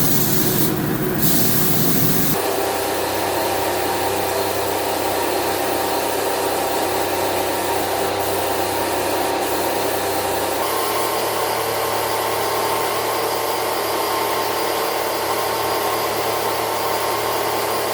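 A power tool running steadily, in three stretches that change abruptly about two seconds in and again a little past halfway.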